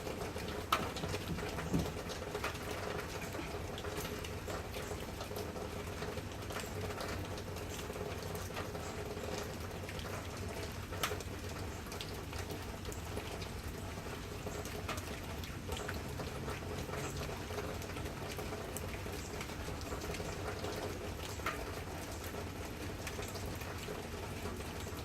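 Steady rain falling, with scattered individual drops ticking and pattering on nearby surfaces; a few sharper drips stand out near the start and about halfway through.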